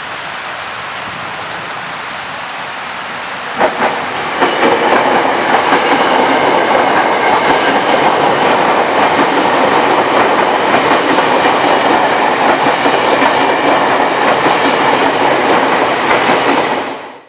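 Steady hiss of heavy rain, then about three and a half seconds in an electric commuter train passes close and loud, its wheels clicking over the rail joints with faint high tones. The sound cuts off suddenly at the end.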